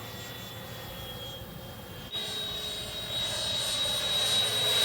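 Freewing F-22 Raptor RC jet's 90mm electric ducted fan whining steadily in flight. About two seconds in it jumps louder, then keeps growing louder.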